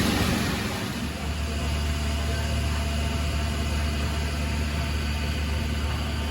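Fishing boat engine running steadily, a low even drone. A louder rushing noise fades out about a second in.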